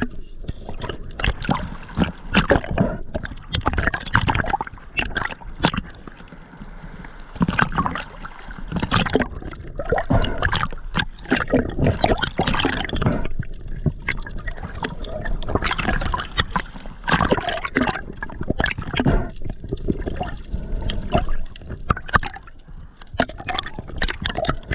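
Water sloshing and gurgling, with many irregular splashes and sharp clicks.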